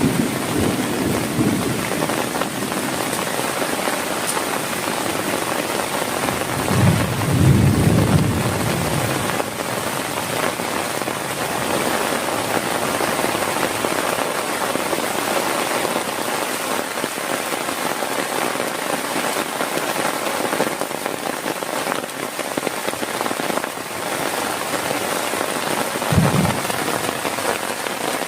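Heavy rain falling steadily, with a low rumble of thunder about seven seconds in and a shorter one near the end.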